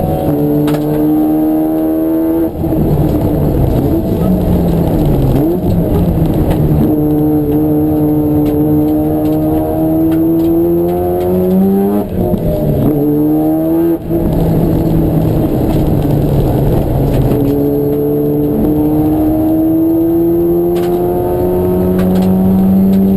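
Race car engine at racing speed: its pitch climbs steadily under acceleration, then falls sharply several times as the revs drop for gear changes and braking.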